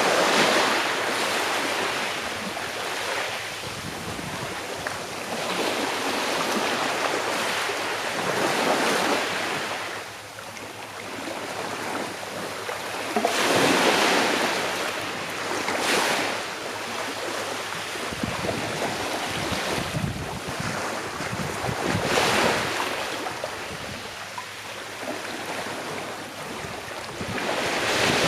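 Sea waves washing onto the shore: a steady hiss of surf that swells every few seconds as a wave breaks and draws back.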